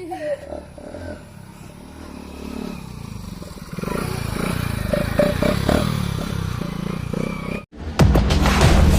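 Hero Splendor Plus's single-cylinder four-stroke engine running through a homemade silencer made from a Coca-Cola can, growing louder about four seconds in. Near the end it cuts off briefly and loud music starts.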